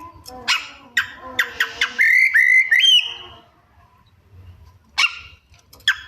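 Oriental magpie-robin (kacer) in full song: a quick run of sharp chirps, clicks and short whistled slurs in its mimicry-laden song, a pause of about two seconds, then more sharp notes near the end.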